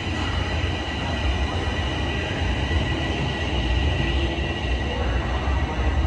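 TTC Toronto Rocket subway train creeping slowly through the station: a steady low rumble with a faint steady high tone above it.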